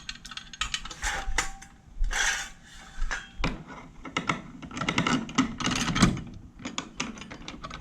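Irregular clicks, knocks and clattering of metal hardware and tools being handled.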